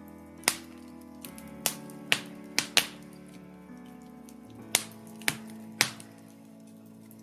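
Wood fire in a fireplace, burning birch logs, crackling with about eight sharp pops and snaps at irregular moments. Soft background music with held notes plays underneath.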